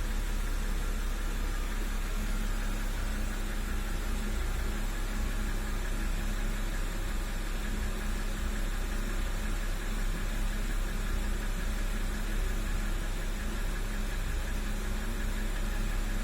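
BMW N52B25 2.5-litre straight-six idling steadily with a knock in it, which the owner suspects could be a hydraulic lifter, a camshaft journal or the crankshaft bearings.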